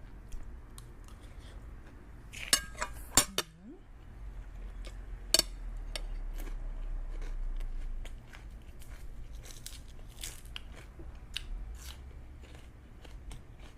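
Eating sounds close to the microphone: scattered clicks and clinks of utensils against a dish, with a few sharp clinks about two and a half to three seconds in and another a couple of seconds later, and chewing.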